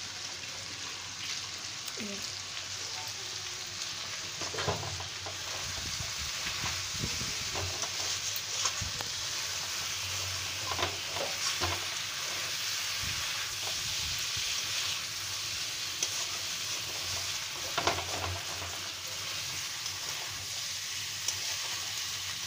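Potatoes and moringa drumsticks sizzling as they fry in a kadhai, the cooking water cooked off, with a metal spatula scraping and knocking against the pan every few seconds as the mixture is stirred.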